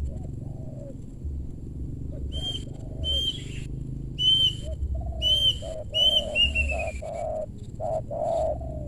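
Spotted dove cooing, a run of low notes that come closer together in the second half. Short high chirps of another bird sound between about two and seven seconds in.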